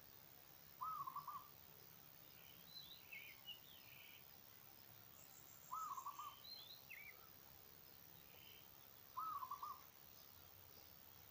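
A bird gives a short call of several quick hooting notes three times, roughly every four seconds, while other birds make faint, higher chirps in between.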